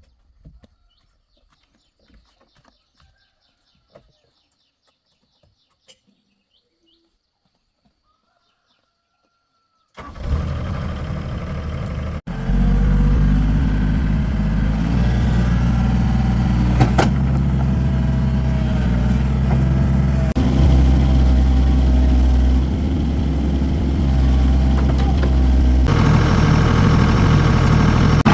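Near silence with faint chirps, then about ten seconds in an engine cranks briefly, catches and settles into a steady idle, running a little louder near the end.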